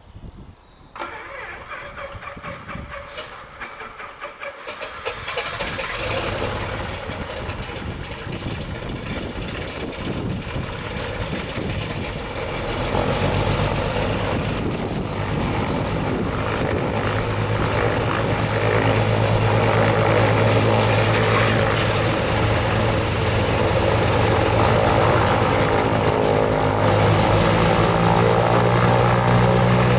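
Piper PA-31-310 Navajo's turbocharged Lycoming TIO-540 piston engine being started. It cranks and catches, then builds up and settles into a steady idle with the propeller turning, rising in level again near the end.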